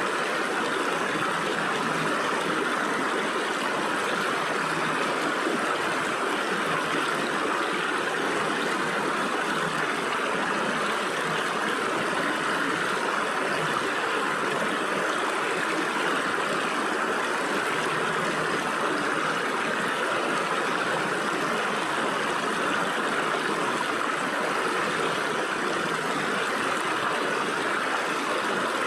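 Stream water flowing and splashing between rocks: a steady rushing babble, even throughout.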